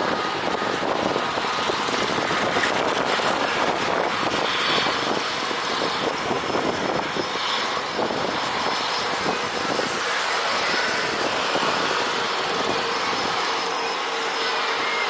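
Steady jet engine noise from an AirAsia Airbus A320 on takeoff, an even roar that holds at much the same level throughout.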